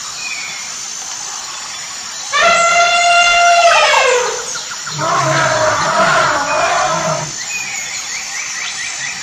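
Elephant trumpeting: a long, loud trumpet call of about two seconds that slides down in pitch at its end, followed about a second later by a second, rougher call with a low rumble under it.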